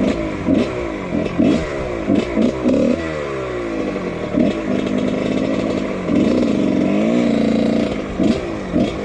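A 1999 Husqvarna CR125's two-stroke single-cylinder engine, fitted with a Pro Circuit exhaust, under way on a trail ride. The throttle is blipped in quick rev-ups and drops, and the engine holds a steadier high-rev pull for a few seconds in the middle.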